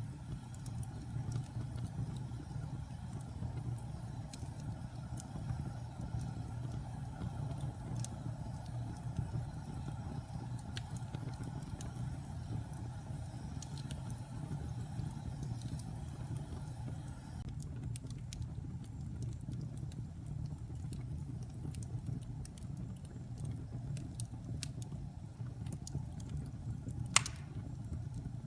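Wood fire burning in a fireplace: a steady low rumble of the flames with scattered small crackles and pops, and one sharper pop near the end.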